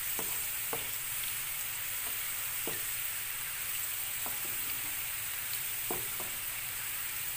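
Sliced onions and whole dried red chillies sizzling in hot oil while frying the tempering (baghar) for dal. A wooden spatula stirs them, knocking against the pan about five times.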